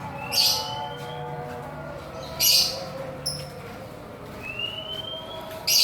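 Birds in an aviary calling. Three times a short rising whistle is followed by a loud, harsh high chirp.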